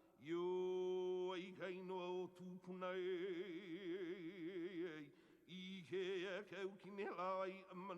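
Background music: a man singing slow, held notes with a strong vibrato, one long wavering note lasting about two seconds in the middle.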